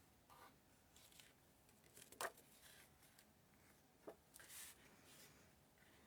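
Near silence with faint paper handling: a light tap about two seconds in, another about four seconds in, and a soft rustle of paper just after.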